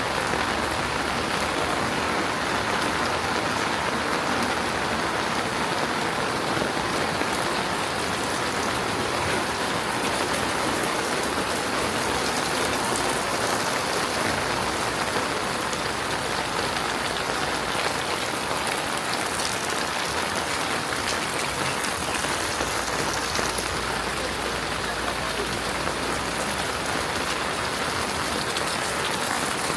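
Heavy rain falling steadily, an even hiss of rain on the ground with no let-up.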